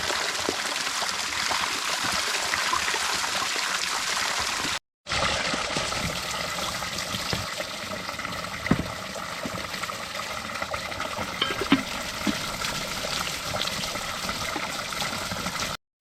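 Water running and splashing steadily, with a few small knocks. The sound cuts out completely twice, briefly.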